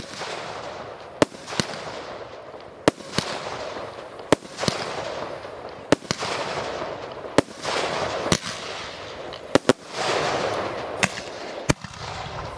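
Fireworks display: about a dozen sharp bangs of bursting shells, roughly one a second and sometimes two in quick succession, each trailed by a crackling hiss that fades over a second or so.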